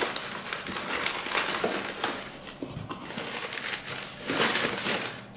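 Shredded newspaper packing rustling and crinkling as hands handle and squeeze a wrapped orchid, louder about four seconds in.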